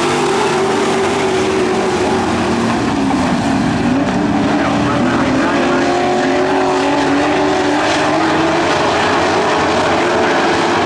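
Several dirt-track Pro Truck racing engines running hard together, their overlapping pitches rising and falling as the trucks lap the track.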